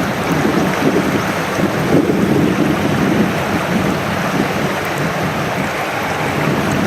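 Mountain stream water rushing, a loud, steady roar with no breaks.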